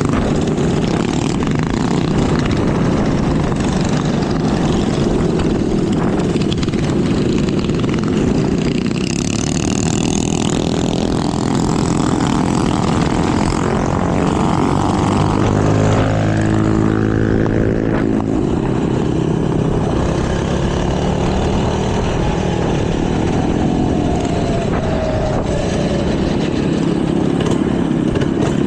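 Minibike engines running steadily while riding, with one engine's pitch rising and then falling about halfway through.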